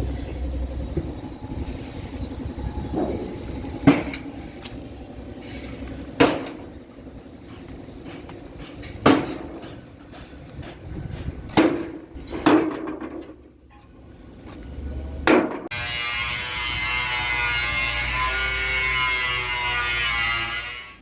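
Six sharp knocks, a few seconds apart, from parts of a miniature mixer truck model being handled and tapped, two of them close together near the middle. Then a loud, steady hiss for about the last five seconds, ending abruptly.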